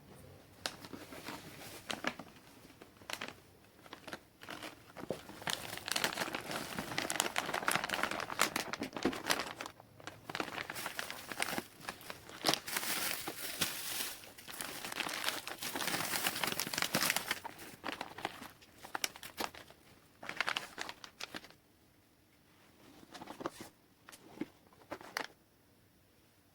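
Packaging or a bag crinkling and rustling as it is handled, in irregular crackly bursts that are busiest in the middle and die down near the end, with one short last burst.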